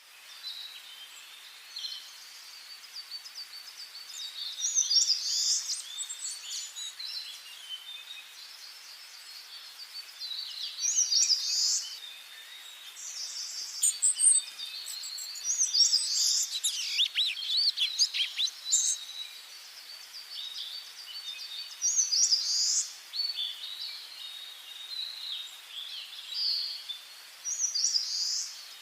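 Wild songbirds singing: a loud, high song phrase recurs about every five to six seconds, with quieter high twittering between, over a faint steady hiss.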